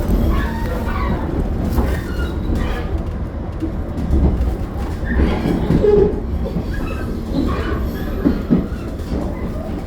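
Limited Express Hokuto diesel train running at speed, heard from on board: a steady low rumble with wheel-on-rail clatter and some wheel squeal.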